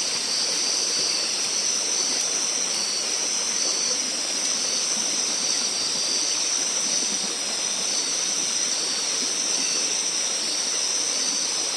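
Steady rush of a forest stream under a dense chorus of night insects, with one insect's call pulsing in short repeated chirps above the steady high drone.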